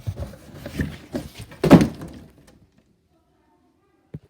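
A run of small knocks and handling noises, ending in one loud thump a little under two seconds in, then stillness and two faint clicks near the end.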